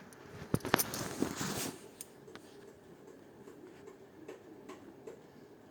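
Wiping along a rubber fridge door seal: a few sharp clicks and a short rubbing rustle in the first two seconds, then faint scattered ticks.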